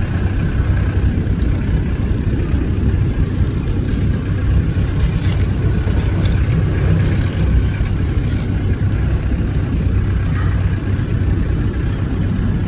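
Talbot Express motorhome driving along, heard from inside: a steady low engine and road rumble with light clicks and rattles.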